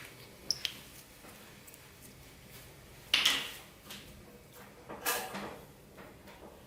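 Slime and its container being handled: two short bursts of noise, about three and five seconds in, after a couple of small clicks near the start.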